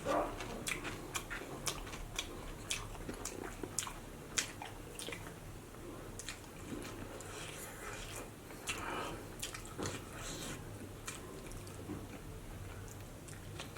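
A person chewing and biting food with the mouth open, making irregular wet clicks and smacks, a few to several a second, for the whole stretch.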